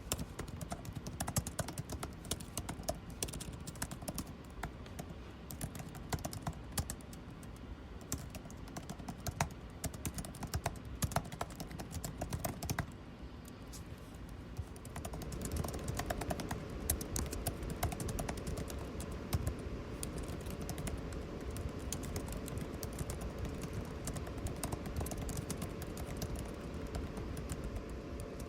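Typing on a computer keyboard in irregular runs of keystrokes, with a brief pause about halfway. After the pause a steady air-conditioning hum with a droning tone comes in under the typing.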